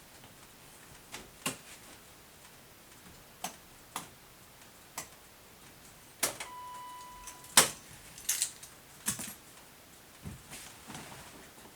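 Scattered sharp clicks and knocks, about a dozen, irregularly spaced, with one short steady electronic beep a little after the middle. No engine is heard running.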